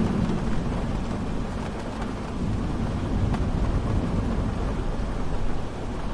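Steady rain falling, with a continuous low rumble underneath and an occasional single drop ticking out above the hiss.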